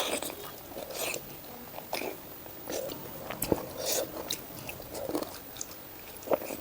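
Close-miked chewing and wet mouth smacking from someone eating a mouthful of rice with pork and greens, with irregular short clicks and smacks scattered through.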